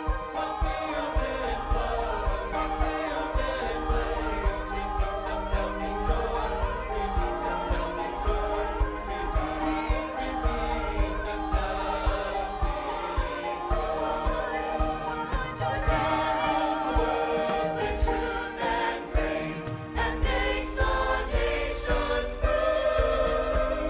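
Church choir singing with instrumental ensemble accompaniment and a steady beat.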